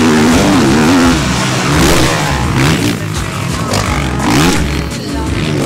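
Motocross bike engines revving hard, their pitch rising and falling again and again as the riders throttle and shift.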